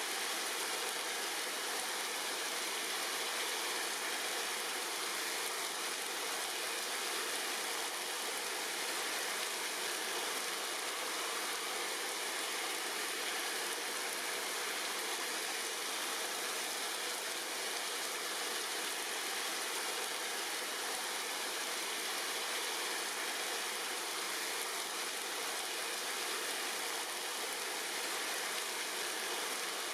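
Steady rain falling on tree leaves: an even, unbroken hiss with no thunder or separate drips standing out.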